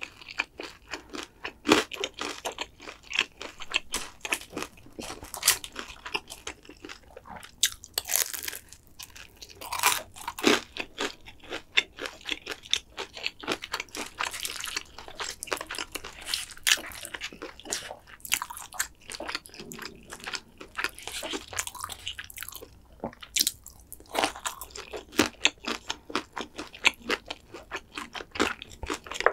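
A person chewing and crunching mouthfuls of black-bean noodles and fried dumplings close to the microphone. The chewing is steady and irregular, with many sharp wet mouth clicks and crunches.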